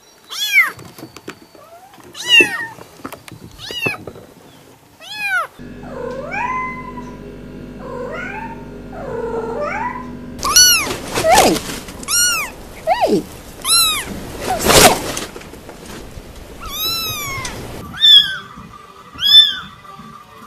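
Cats meowing in a string of short clips: kittens giving short, high mews about once a second, then lower drawn-out meows over a steady hum, then an adult cat meowing loudly about ten times, and near the end a few thin, high kitten mews.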